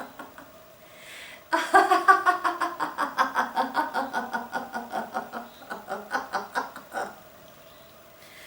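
A woman laughing in a long run of quick ha-ha-ha pulses. It starts after an in-breath about a second and a half in and tails off around seven seconds.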